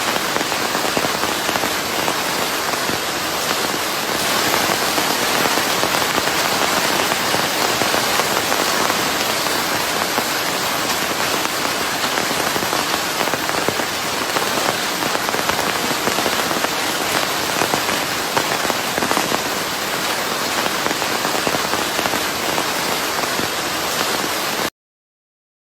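Steady rain mixed with white noise: a dense, even hiss of many drops. It cuts off abruptly about a second before the end.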